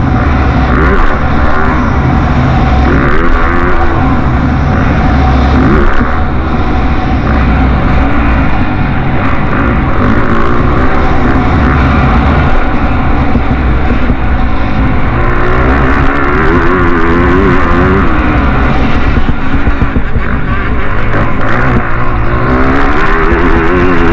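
Motocross bike engines revving hard, their pitch rising and falling continuously as the riders work the throttle, loud throughout.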